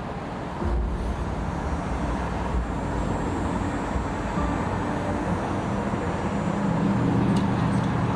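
Pioneer TS-D10D4 10-inch car subwoofer playing deep bass notes in its ported box, the low bass coming back in strongly about half a second in and settling into steadier, slightly higher bass tones near the end.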